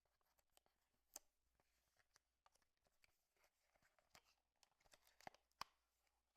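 Faint handling of the earphones' packaging: irregular rustles and small clicks, with a few sharper clicks about a second in and twice near the end.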